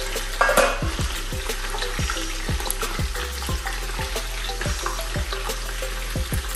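Shrimp, crab and chopped onion sizzling in hot palm oil in a stainless steel pot, the sizzle flaring briefly about half a second in as the onion goes in. A steady thumping music beat runs underneath.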